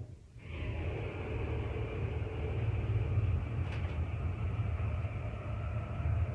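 Steady low mechanical rumble with a droning hum from construction machinery, heard through the apartment building's walls and floors. It starts up just after a short dip at the start and holds steady.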